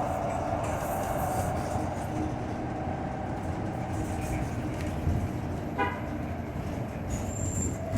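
Inside a 2018 New Flyer Xcelsior XT40 electric trolleybus with Vossloh Kiepe traction motors, running over the road with a steady rumble. A motor whine fades out early and comes back near the end, and a brief beep sounds about six seconds in.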